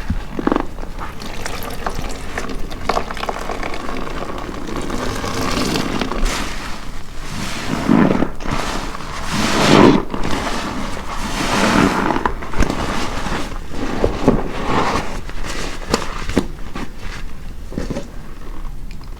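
A soaked car-wash sponge squeezed with detergent over and over, soapy water squishing and pouring out of it in repeated swells.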